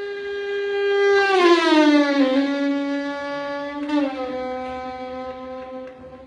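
Violin bowed to imitate an engine: one held note that slides down in pitch just over a second in, then holds at the lower pitch to the end.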